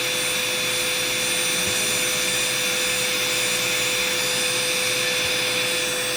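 Electric foot-care drill with dust suction running steadily at one pitch, a continuous motor whine over a hiss, as used in grinding down a corn.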